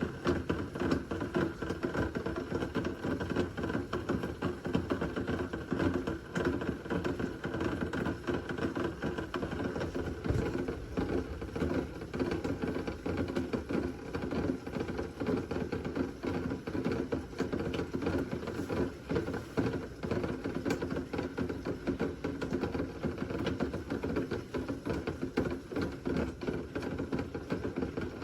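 Rain pattering steadily from a thunderstorm, a dense, irregular clatter of drops that holds even throughout.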